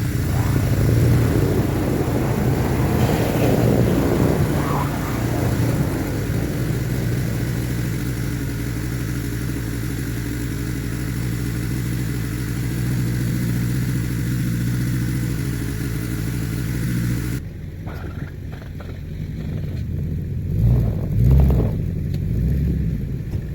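Yamaha ATV engine idling while it warms up after a jump start, with some unevenness in the first few seconds. About three-quarters of the way through the sound switches abruptly to a duller, lower engine rumble with two louder swells near the end.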